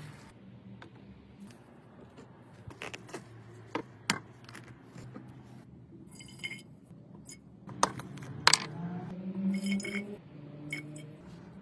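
Small metal parts clinking and tapping against each other, with a few sharp knocks, over a low steady hum.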